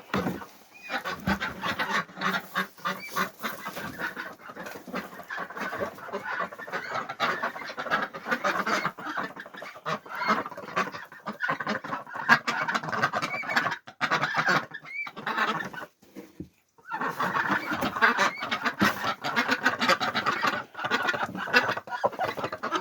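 A flock of hungry ducks calling noisily over their feed, many birds at once, with quick clicking from bills working the food; the sound drops out briefly about two-thirds of the way through.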